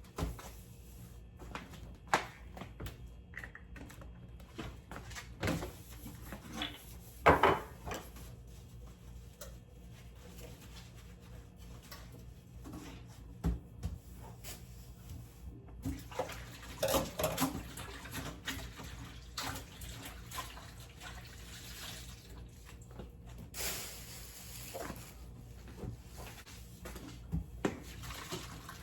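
Kitchen sink tap running in spells, with scattered clinks and knocks of dishes and utensils, over a steady low hum.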